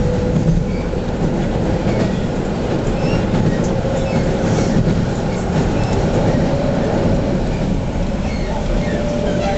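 A JR Central 117 series electric train running at speed, heard from inside the passenger car: a steady rumble of wheels and running gear. A faint whine runs through it and edges slowly up in pitch.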